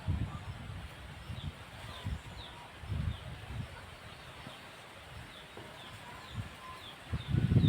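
Wind buffeting the microphone in low gusting rumbles, strongest near the end. Over it, a bird's short, high, downward chirps repeat every second or so.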